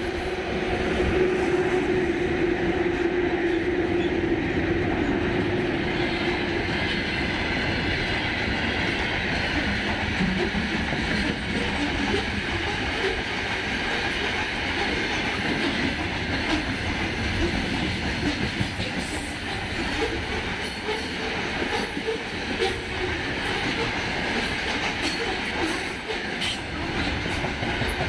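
Two coupled VL11M electric locomotives pass with a steady hum for about the first six seconds. A long freight train of open gondola wagons then rolls by with clickety-clack from the wheels over the rail joints, and a high wheel whine for several seconds in the middle.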